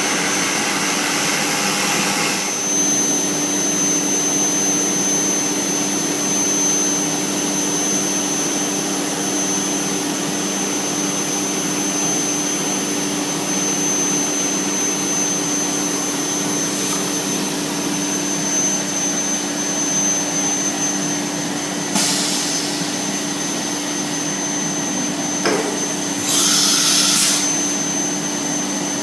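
CNC router spindle running steadily as a half-inch end mill cuts a profile pass a tenth of an inch deep, over the steady hum of the vacuum hold-down pump. The noise is louder for the first couple of seconds, with a short burst of louder noise about 22 seconds in and a longer one near the end.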